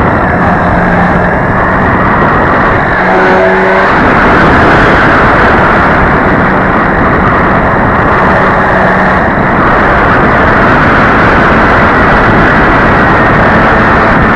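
Radio-controlled model plane's motor and propeller droning over a loud, constant rushing of wind on the microphone; a brief higher note joins in around three to four seconds in.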